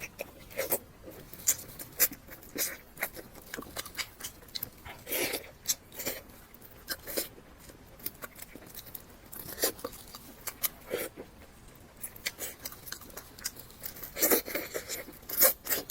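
Close-miked eating: a person chewing salt-baked chicken, with irregular wet mouth clicks, smacks and crunches.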